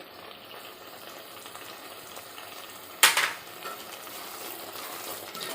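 Carrot halwa (grated carrot, sugar and ghee) sizzling in a pan with a steady faint hiss as it dries out. About three seconds in, a short loud scrape or clatter cuts through.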